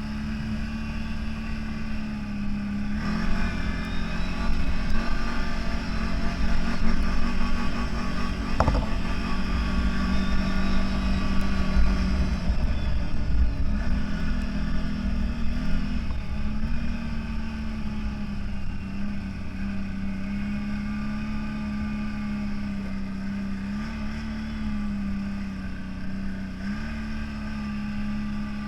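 CFMOTO 1000 off-road vehicle's engine running steadily while driving, louder for several seconds early on under more throttle, then settling with small shifts in pitch. A single sharp knock about nine seconds in.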